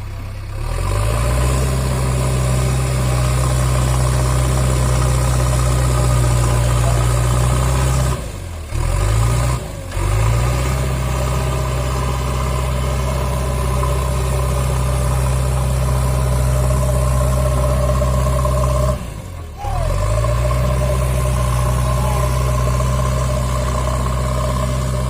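JCB 3DX backhoe loader's diesel engine running hard at high revs while pulling a heavy load. The engine picks up revs just after the start, then drops briefly and climbs back up three times.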